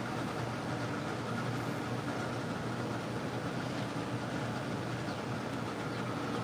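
Steady droning background noise with a low hum, unchanging throughout.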